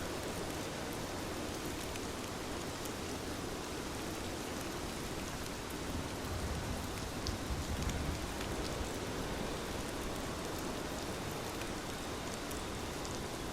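Steady rain falling, with scattered small drop ticks over an even hiss. A low rumble swells briefly about halfway through.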